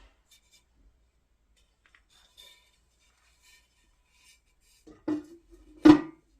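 A few faint ticks, then two sharp clunks of hard objects knocking together, the second louder, each with a brief ringing tone.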